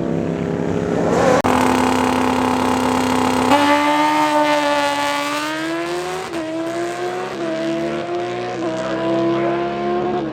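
Drag-racing motorcycle engine held at steady high revs, then launching about a third of the way in. The pitch climbs and then steps as it shifts up through the gears, about three times.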